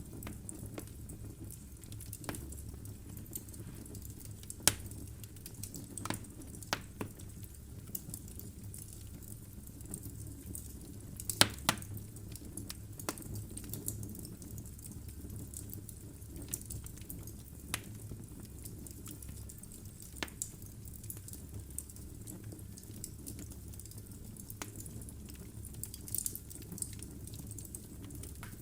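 Wood fire burning in a fireplace: a low steady rumble of flames with irregular sharp crackles and pops from the logs, the loudest pair about eleven seconds in.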